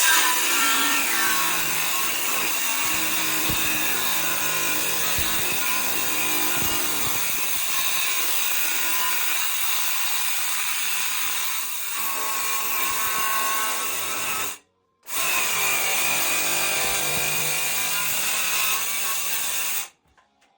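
A power tool running under load on wood: a steady loud whine and rasp. It breaks off for a moment about fifteen seconds in, then starts again.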